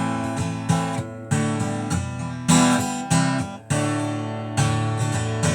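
Acoustic guitar strumming chords, each chord struck about once a second and left ringing until the next.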